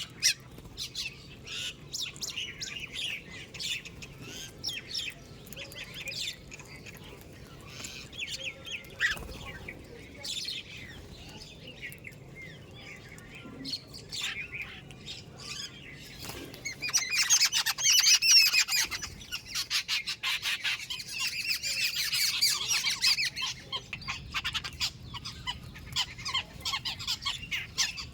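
A flock of birds chirping and squawking at a feeding spot, many short high calls overlapping. About two-thirds of the way through, the calls thicken into a louder, dense chorus for several seconds before thinning out again.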